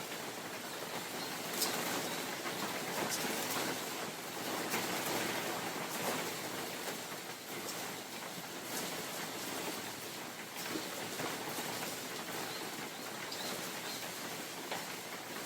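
Rain falling steadily in a forest with wind, an even hiss with many scattered close drops ticking, the level swelling and easing gently.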